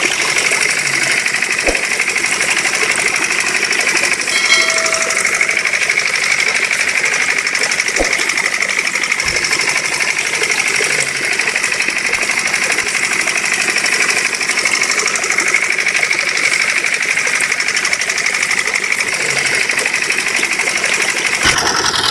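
Small motor of a miniature model engine-driven water pump running steadily with a fast, even chatter. A short tone sounds once about four and a half seconds in.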